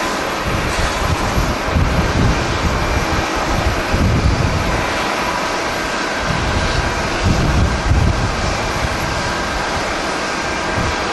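Jet airliner engine noise, a steady rush with a faint whine, with strong wind buffeting the microphone in gusts.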